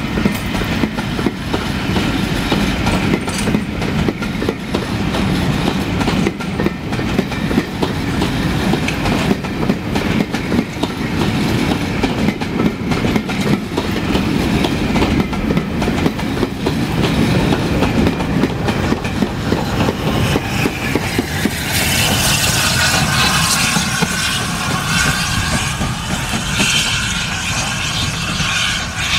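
Passenger coaches rolling past at low speed, wheels clicking and rumbling over the rail joints and pointwork. About three quarters of the way through, a loud hiss with wavering squeals joins in as the steam locomotive Duke of Gloucester draws near at the rear of the train, steam escaping around its wheels.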